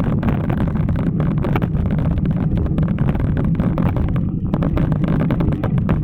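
Wind buffeting the microphone of a camera carried on a moving bicycle: a steady low rumble broken by constant crackles.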